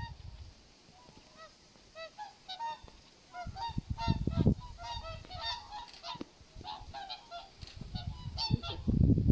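A flock of swans calling in flight: many short honking calls, overlapping and repeated all through. A few low rumbles come in about four seconds in and again near the end.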